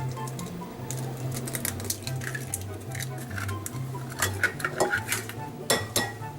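Eggs being cracked into a bowl: a run of sharp taps and clicks of shell against the bowl's rim, coming thicker in the second half, over soft background music.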